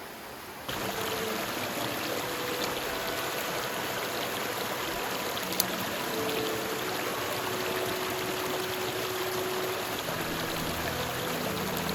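Steady rushing of a mountain stream, with soft background music of held notes coming in with it about a second in. There is one sharp click near the middle.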